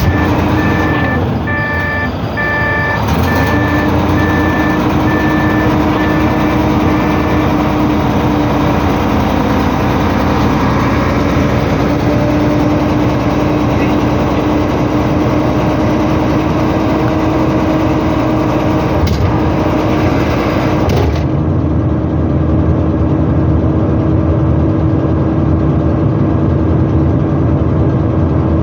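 Volvo dump truck's diesel engine running steadily, its pitch dipping briefly and then picking back up and holding about three seconds in. Several short high electronic beeps sound in the first few seconds.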